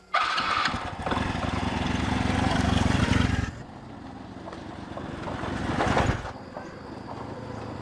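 Motorcycle engine starting up suddenly and running, revved up twice: it climbs to a peak about three seconds in, drops back, climbs again around six seconds, then settles to a lower idle.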